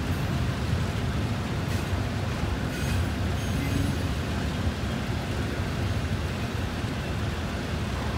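Double-stack intermodal well cars rolling past: a steady low rumble of steel wheels on rail, with a few faint high clicks about two and three seconds in.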